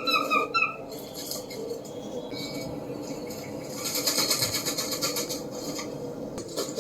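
Peregrine falcon calls: two short calls in the first second, then a fast run of repeated notes about four seconds in, over a steady faint hum.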